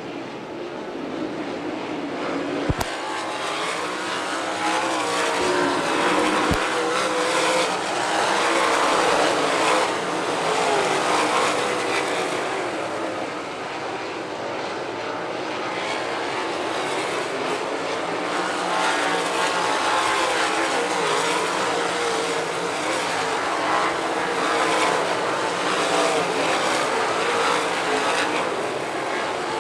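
A field of 600cc mini sprint cars racing on a dirt oval. Their high-revving engines overlap in a steady, loud drone that swells and fades as the cars pass, with a sharp crack about three seconds in.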